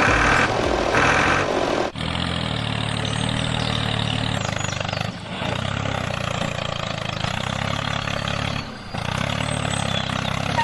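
A vehicle engine running steadily with a low rumble, dipping briefly twice. It is preceded by about two seconds of loud hissing that cuts in and out.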